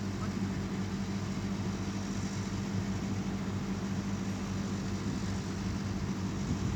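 A steady low hum over an even background rush, unchanging throughout.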